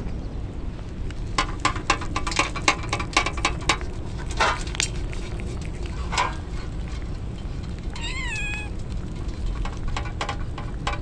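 A kitten meowing once, a short, high, wavering cry about eight seconds in, over a steady noise bed typical of rain. Earlier, a quick run of sharp clicks or taps.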